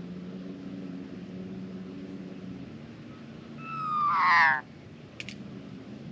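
Australian magpie giving one loud, harsh call lasting about a second, falling in pitch and swelling before it cuts off, a little past the middle. A short click follows, over a steady low hum.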